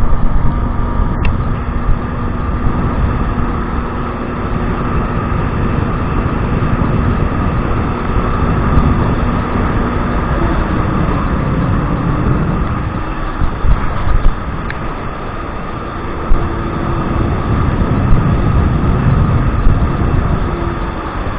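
Kawasaki 1200 jet ski engine running under way, mixed with heavy wind and water rush on the microphone. The engine note holds steady for about the first half, then rises and falls, with a few sharp thumps in the second half.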